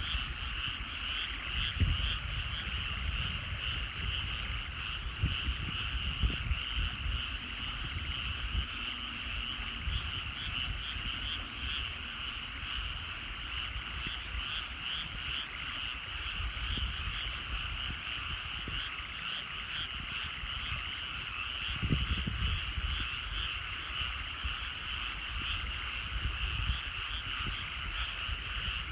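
A dense, unbroken chorus of many frogs calling in rice paddies, the calls overlapping into a steady trill. Irregular low rumbles come and go underneath, loudest about two seconds in and again near twenty-two seconds.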